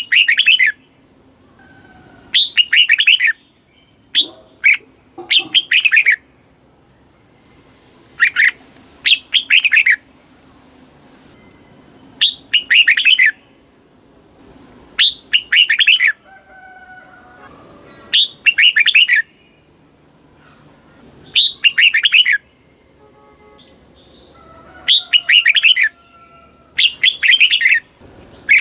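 Red-whiskered bulbul singing: short, quick phrases of clear notes, repeated about every three seconds, with faint softer bird calls in the pauses.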